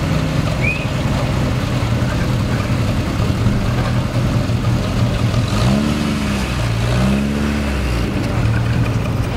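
Triumph TR6's 2.5-litre straight-six running at a low idle as the car rolls slowly past. After about five and a half seconds the throttle is blipped twice, the revs rising and falling each time.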